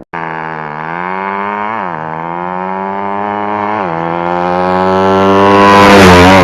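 Yamaha Jupiter drag-bike engine bored to 200cc, running loud through a DOS racing muffler. Its pitch climbs slowly with two brief dips, and it grows louder towards the end.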